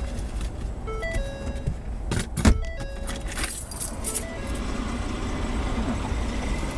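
Steady low rumble of a car heard from inside the cabin, with a simple plinking tune of short stepped notes over it and brief jingling rattles about two seconds in and again around three and a half seconds in.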